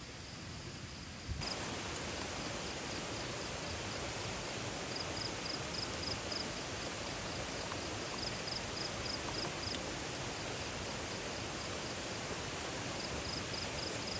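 Steady rush of flowing river water, growing suddenly louder about a second and a half in, with an insect chirping in short, quick repeated pulses over it.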